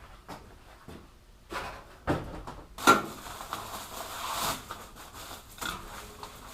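Hand work on a micro sprint race car: about five separate knocks and clicks of parts being handled in the first three seconds, then a few seconds of rubbing and rustling.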